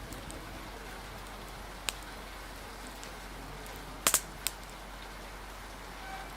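Steady rain hiss with a few sharp clicks over it: one about two seconds in, then a louder cluster of three a little after the middle.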